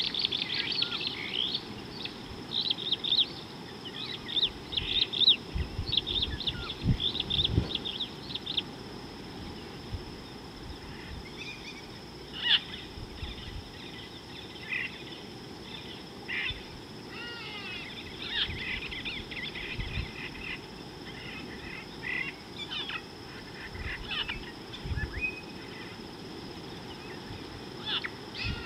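Wild birds chirping and calling in short rapid bursts, thickest in the first eight seconds and scattered after, over a steady outdoor background hiss.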